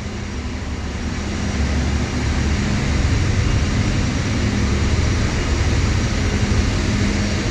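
Steady low rumble and hum of a ship's machinery heard from a lower deck inside the vessel, growing slightly louder about a second and a half in.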